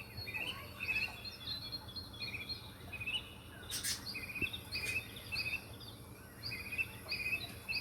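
Small pet birds chirping: many short, high chirps repeated again and again, over a faint hiss.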